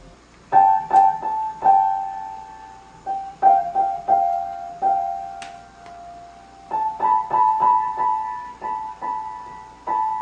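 Piano keys struck one at a time in three uneven clusters of high notes, each note ringing out briefly, rather than a flowing melody.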